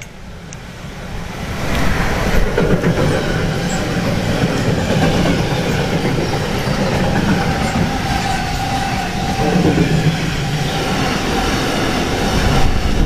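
A DB Cargo class 193 Vectron electric locomotive passes close by hauling a mixed freight train. Its arrival brings a sudden jump in loudness about a second and a half in. A steady loud rumble and rattle of the freight wagons' wheels on the rails follows.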